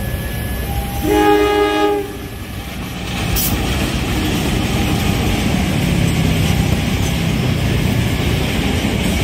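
Diesel locomotive horn sounding once for about a second, then a passenger train running past a level crossing with a steady rumble of wheels on the rails.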